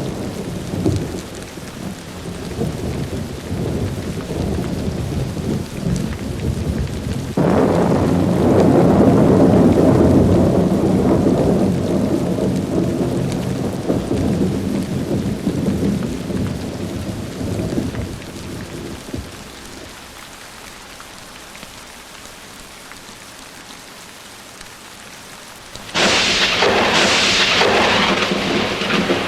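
Thunderstorm with steady rain and rolling thunder. A thunderclap breaks about a quarter of the way in and rumbles off over several seconds, the storm eases to rain alone, then a sharp, close crack of thunder hits twice in quick succession near the end.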